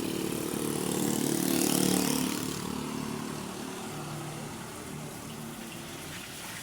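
A vehicle engine running, growing louder to a peak about two seconds in and then easing back to a steady lower level.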